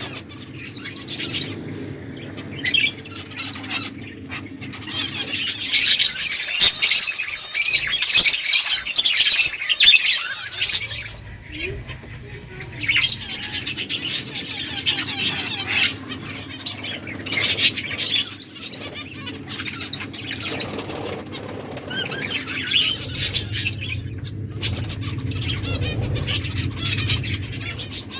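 Small finches chirping in quick, overlapping bursts, busiest about six to ten seconds in and again later, with wing flutters among the calls.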